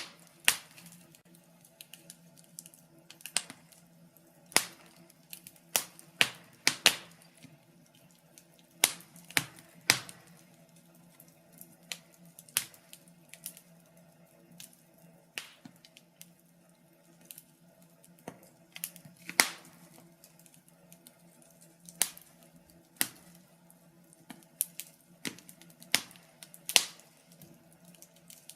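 Wood burning in a fireplace, crackling with irregular sharp pops, sometimes several close together and sometimes a second or more apart, over a faint steady low hum.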